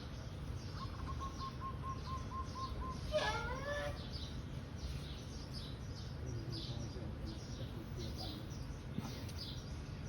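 Small bird chirping: repeated short, high chirps, with a quick even run of about nine lower notes in the first few seconds and a louder call about three seconds in.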